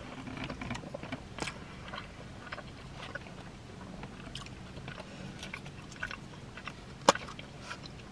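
Close-miked chewing and mouth sounds from eating chili cheese fries, with small clicks of a plastic fork against a foam container. About seven seconds in, a single sharp plastic click, the loudest sound, as the lid comes off a small dip cup.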